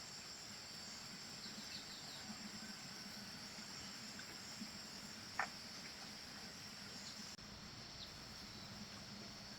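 Steady high-pitched chorus of insects, with one short sharp tap about five and a half seconds in.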